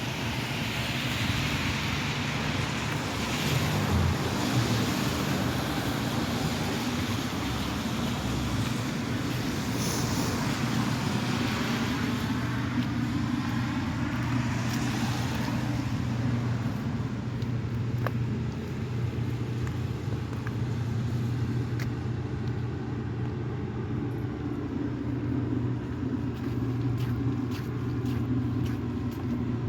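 Street traffic: cars passing, their noise swelling and fading over a steady low engine hum.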